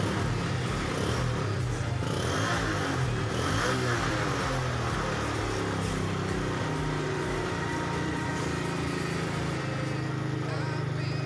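Yamaha RX-King's two-stroke single-cylinder engine running steadily through its original exhaust, its pitch rising and falling briefly a few seconds in.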